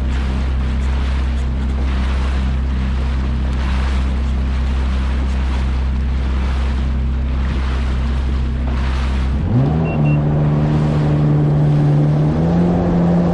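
Yamaha jet ski engine running over the water, with the rush of water and wind. About nine and a half seconds in the engine speeds up to a higher steady pitch, and it rises again near the end.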